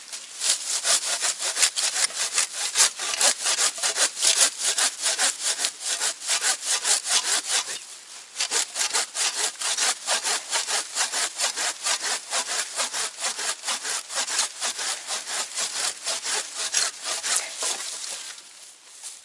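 Hand saw cutting through the stem of a small tree, in quick, even back-and-forth strokes, several a second. The sawing breaks off briefly about eight seconds in, resumes, and tails off near the end.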